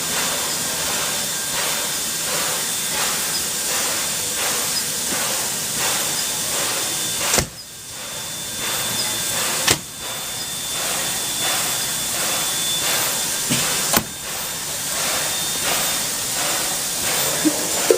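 Standing steam locomotive, the NZR Ab-class Pacific Ab608, hissing steam steadily at rest, with a faint regular pulse through the hiss. Three sharp clicks, each followed by a brief dip, break it about halfway through and again near two-thirds of the way in.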